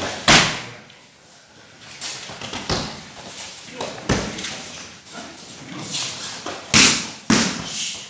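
Repeated sharp thuds from pencak silat training, several hard impacts a few seconds apart, with voices between them.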